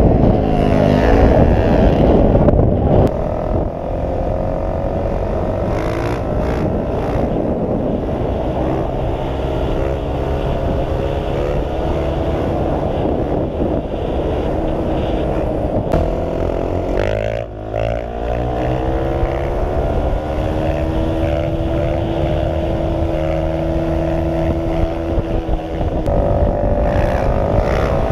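Motorcycle engine running under way, its pitch climbing steadily as it accelerates. About two-thirds of the way through it drops briefly, then climbs again.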